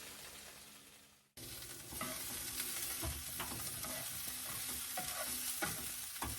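Vegetables sizzling in a frying pan as they are sautéed, with a steady hiss and a spatula clicking and scraping against the pan now and then. The sizzle cuts in suddenly about a second and a half in, after the sound before it fades away.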